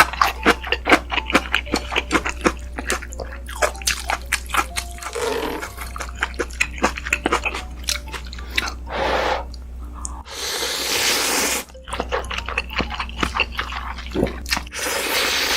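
Close-miked eating: quick wet chewing and mouth clicks, broken by several longer slurps of about a second each, the longest near the middle.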